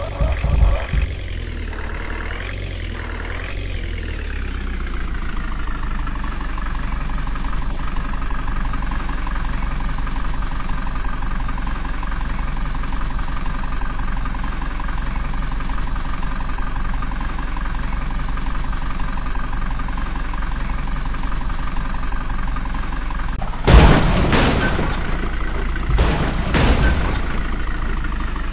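Truck's diesel engine running; its revs drop and settle into a steady idle in the first few seconds. Near the end come two loud hissing bursts.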